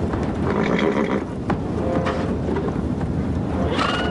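Horses whinnying over a steady low rumble of many hooves as a mounted army advances, with one clear whinny near the end.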